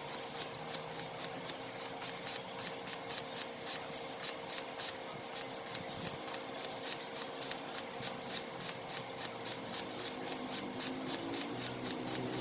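Rhythmic rubbing or scraping strokes made by hand, about five a second and very even, with a faint steady hum underneath.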